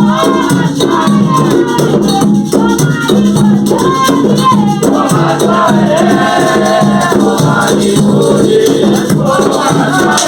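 Devotional song for the orixás: voices singing over a shaker or rattle keeping a fast, steady rhythm.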